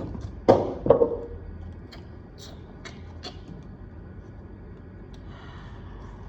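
Handling of the iPad's cardboard box and packaging: two loud knocks about half a second and a second in, then a few light clicks, and a soft rustle near the end.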